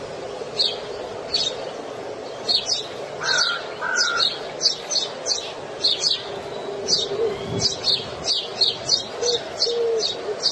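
Small birds chirping: short high chirps about twice a second, with a couple of lower notes a little over three seconds in, over a faint steady hum.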